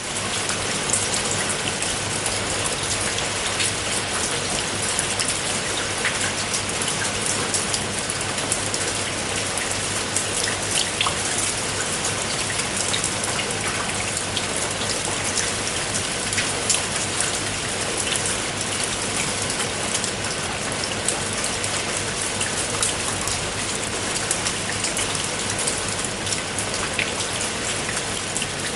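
Steady rain falling on roof tiles: a dense, even hiss dotted with many distinct drop ticks. It cuts in abruptly and then holds steady.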